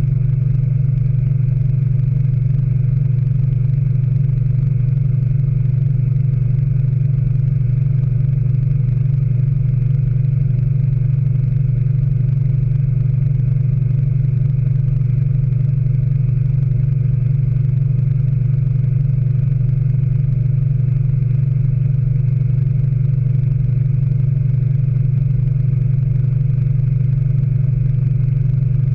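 Speed Queen AWNE92 washing machine in its final spin, running at a steady full speed with a loud, unchanging hum and whir.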